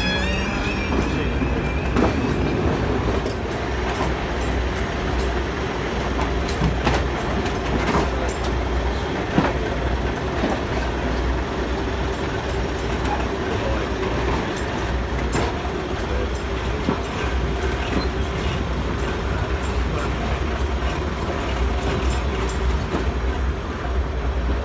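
British Rail Class 101 diesel multiple unit running, with a steady diesel drone and the wheels clicking over rail joints and pointwork. A wavering high wheel squeal dies away about two seconds in.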